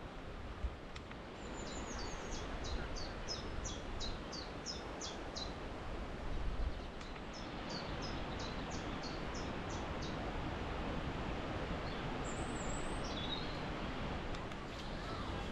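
Wind rushing and buffeting the microphone with a low rumble, while a songbird sings two phrases of rapid, evenly repeated high notes, about three a second, with a short high call near the end.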